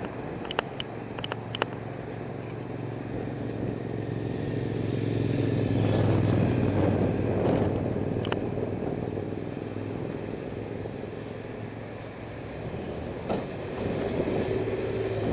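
A motor vehicle's engine hum passing by, growing louder to a peak about six or seven seconds in and then fading away. A few sharp clicks sound in the first two seconds.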